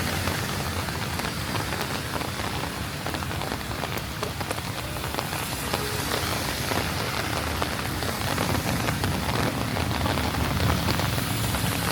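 Rain falling on the street and surrounding surfaces: a steady hiss thick with the patter of individual drops.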